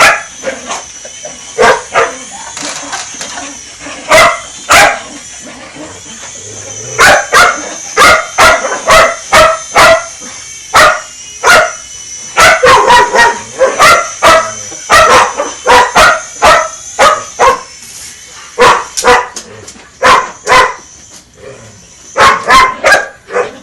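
A dog barking over and over in quick runs of sharp barks, with short pauses between the runs. A steady high-pitched whine runs underneath.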